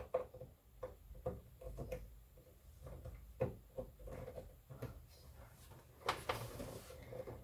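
Faint scattered clicks, taps and rustles of computer power cables and connectors being handled inside a PC case, with one sharper knock about halfway through.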